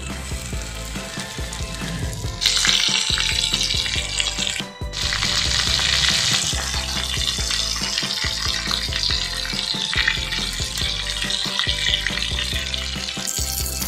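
Breadcrumb-coated prawns deep-frying in hot oil in a small clay pot, sizzling loudly. The sizzle jumps up about two and a half seconds in as more prawns go into the oil, dips briefly near five seconds and swells again near the end, while a spoon stirs the pot.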